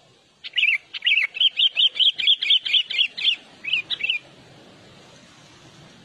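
A songbird sings a fast run of about seventeen short, bright chirping notes, roughly five a second, starting about half a second in. It breaks off briefly, then adds three more notes and stops just after four seconds.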